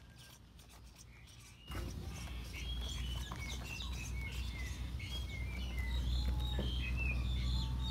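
Several birds chirping with many short rising and falling calls, over a steady low rumble that starts suddenly about two seconds in.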